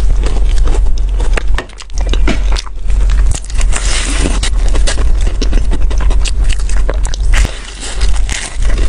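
Close-miked biting and chewing of a soft bread roll with a dark purple filling: wet, crackly mouth sounds with dense small clicks, pausing briefly between bites. A steady low hum runs underneath.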